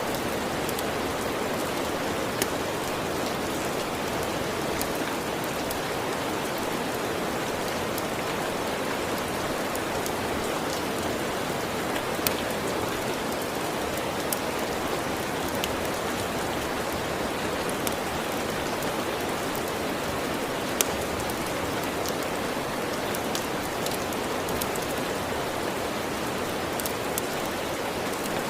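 Steady rain, an even dense hiss, with scattered sharp pops and clicks of a crackling wood fire throughout.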